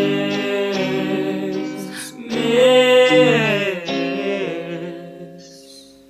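Closing bars of a song: a voice holds wordless sung notes over sustained acoustic guitar chords, swelling to its loudest note about two and a half seconds in, then the music fades out.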